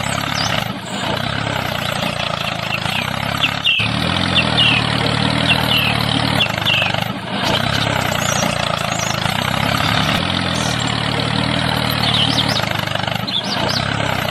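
Small engine running steadily, a low even drone broken by brief dips a few times, with short high chirps over it for a few seconds.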